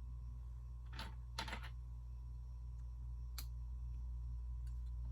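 A few light plastic clicks of Lego pieces being handled and pressed together: one about a second in, a quick double click just after, and another past the three-second mark, over a steady low hum.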